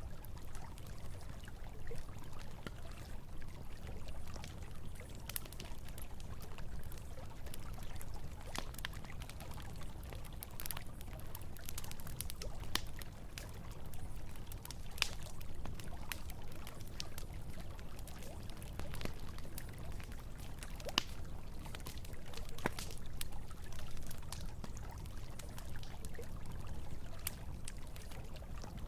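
Campfire crackling with scattered sharp pops and snaps over a steady rush of flowing river water.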